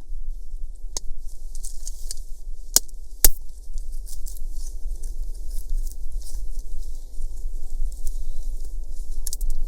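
Wood fire crackling: a constant patter of small crackles, with a few sharp snaps in the first few seconds, the loudest just after three seconds in.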